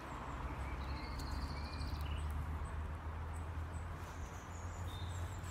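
Small birds singing high chirping phrases, with a fine trill about a second in, over a steady low rumble.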